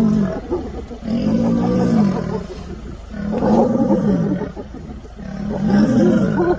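Lion calling in a series of long roars, each rising and falling in pitch, about one every two seconds.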